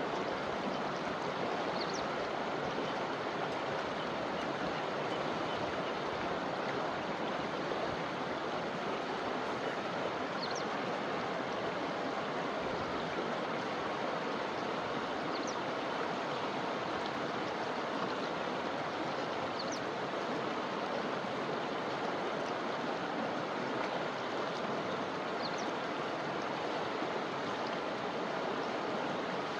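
A forest river flowing, a steady, unbroken rush of water. Short, high chirps sound faintly above it every few seconds.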